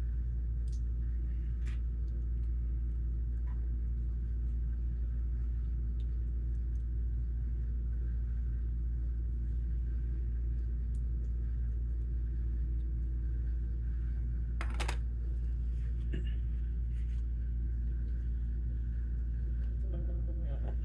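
A steady low hum under the room, with a few faint clicks and one louder clack about fifteen seconds in.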